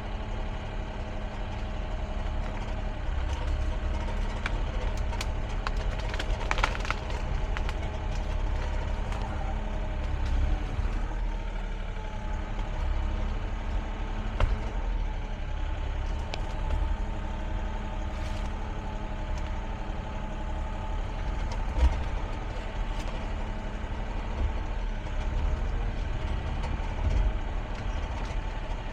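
An excavator's diesel engine running steadily, with a few sharp knocks and clanks from the machine at scattered moments.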